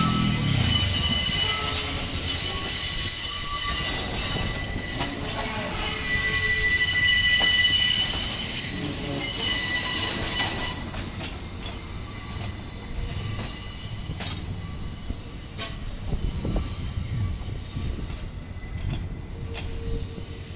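R68-series New York City Subway car wheels squealing on yard track, several high-pitched screeches at once. The squeal fades about halfway through, leaving the train's rumble with scattered clicks of wheels over rail joints.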